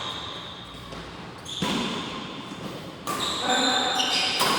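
A badminton rally: rackets striking the shuttlecock about every second and a half, three hits, each echoing in a large sports hall.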